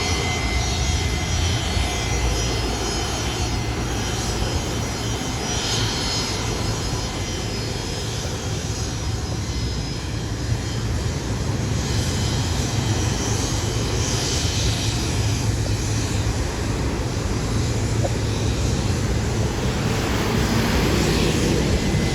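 Airliner engines running: a steady rumble with a faint high whine in the first few seconds, growing slightly louder near the end.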